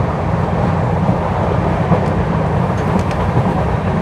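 Steady rumble of wheels on rail inside a moving Indian Railways LHB passenger coach, with a few faint clicks about two and three seconds in.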